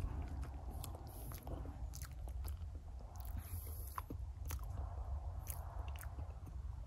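A person chewing and biting a mouthful of banana, with scattered soft mouth clicks, over a low steady rumble.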